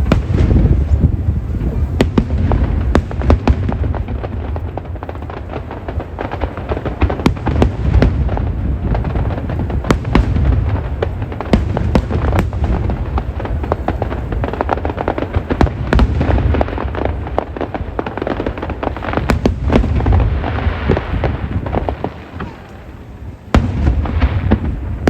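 Aerial fireworks bursting in a dense barrage: a rapid run of sharp cracks over deep, rolling booms. The bursts thin out briefly about 22 seconds in, then resume.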